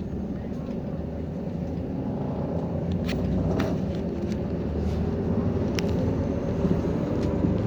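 City bus running, heard from inside the passenger cabin, its engine and road noise getting gradually louder. A few short clicks or rattles sound about halfway through.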